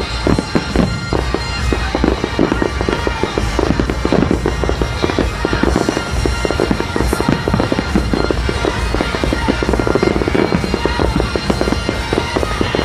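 Fireworks going off in rapid succession: a dense run of bangs and crackles, several a second, with music playing underneath.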